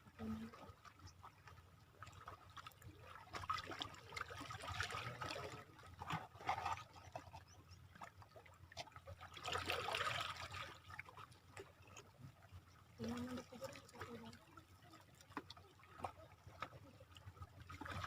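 Faint shore water trickling and lapping, swelling twice into louder washes, with scattered small clicks and brief faint voices in the background.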